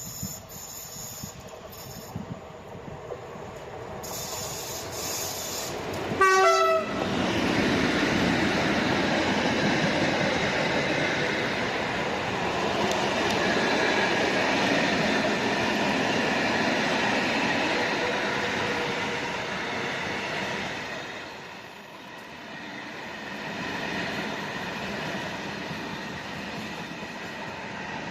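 PKP ET22 electric locomotive and its train approaching, sounding a short horn blast about six seconds in, then passing with a long, loud rumble and wheel noise on the rails that eases off about three quarters of the way through.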